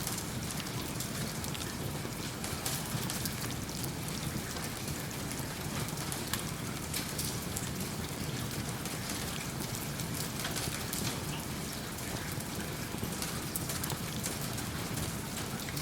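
Steady rain falling, mixed with the crackle of a wood-burning fireplace, with a scatter of small sharp ticks.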